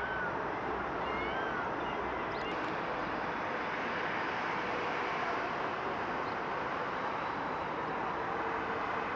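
Jet airliner engines running as a steady, even rushing noise that holds at one level, with a few short bird chirps in the first second or so.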